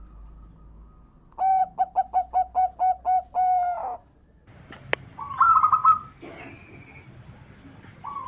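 Zebra dove (perkutut) cooing: a quick run of about ten short notes ending in one longer held note, then a sharp click and a second, higher-pitched call a second later.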